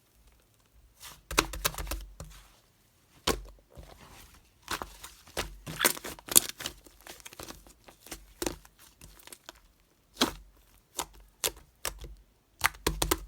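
Blue clay being squeezed and pulled apart by hand, giving irregular bursts of crackling, tearing and popping with short pauses between.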